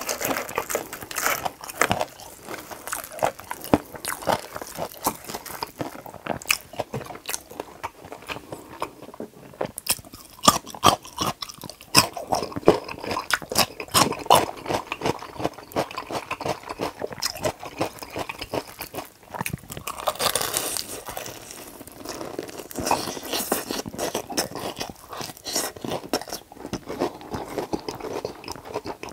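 Close-miked biting and chewing of a crispy fried chicken drumstick dipped in cheese sauce: a dense run of crunches and crackles from the fried coating, mixed with wet chewing.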